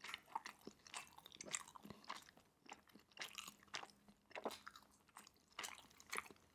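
Faint, close-miked chewing of a Korean spicy rice cake (tteokbokki): soft, irregular wet mouth clicks and smacks.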